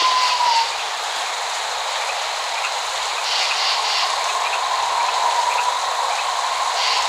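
Steady rain falling, an even hiss without thunder. A thin steady whistle-like tone runs through it, dipping in pitch and fading about half a second in and coming back a couple of seconds later.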